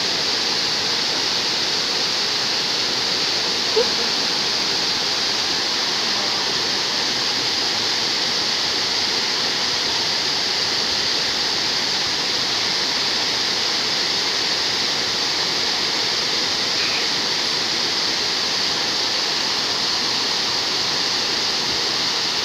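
Waterfall: steady, unbroken noise of falling water, with one brief sharp knock about four seconds in.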